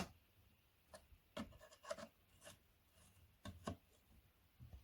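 Faint, scattered light taps and scrapes from handling the parts of a flat-pack wooden drawer.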